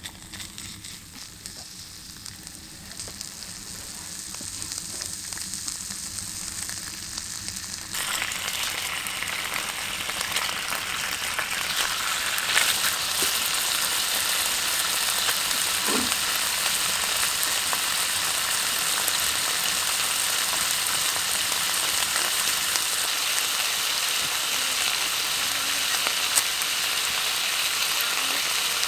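Pork belly frying in a pan on a wood stove. The sizzle is faint at first, steps up sharply about eight seconds in, then settles into a loud, steady sizzle with a few small pops.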